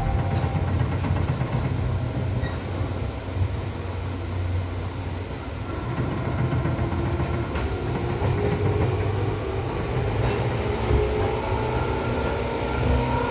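Seibu Tamako Line train set 263F running, with a steady low rumble of wheels on the track. In the second half a faint motor whine rises slowly in pitch as the train picks up speed.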